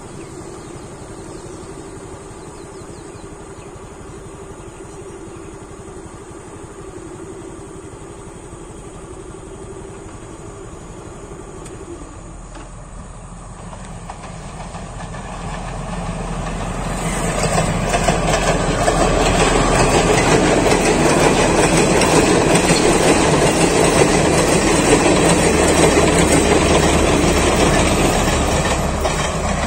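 A blue diesel express train approaches and passes close by: its engine hum and the clatter of wheels over the rail joints build up from about halfway in and are loudest for the last ten seconds or so, easing off near the end. Before that there is a quieter steady rumble from a train moving off in the distance.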